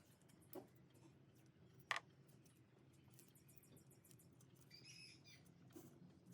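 Near silence: a faint low hum with two small clicks in the first two seconds and a brief faint chirp about five seconds in.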